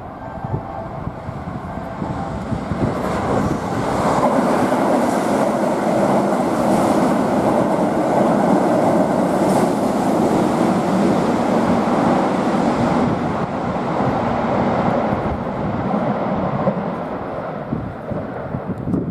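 Keihan Main Line electric train running along the station platform. Its noise builds over the first few seconds, holds loud, then fades near the end.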